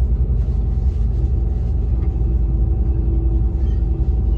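Steady low rumble inside the passenger cabin of the Transwa Prospector diesel railcar running at about 99 km/h, with a faint steady hum over it.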